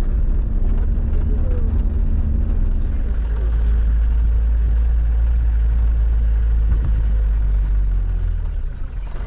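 Steady low rumble of a road vehicle on the move, easing off near the end.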